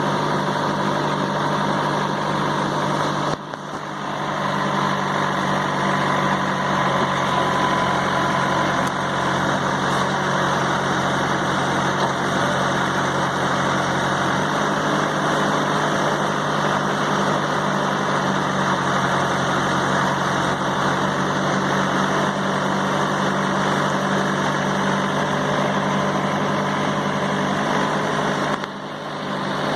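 Mahindra tractor's diesel engine running steadily. A lower hum joins about halfway through, and the sound dips briefly twice, a few seconds in and near the end.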